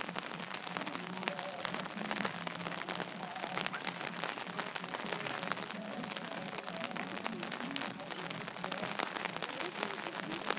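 Steady pattering crackle of light rain falling close to the microphone, with faint distant voices underneath.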